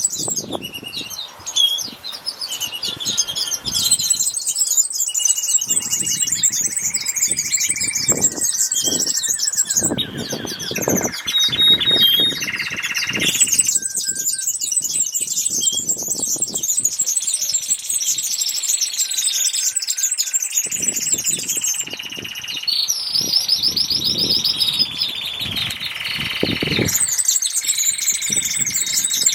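Many small birds chirping and twittering together in a dense, high-pitched chorus, with some longer whistled notes mixed in; the mix of calls changes abruptly a couple of times.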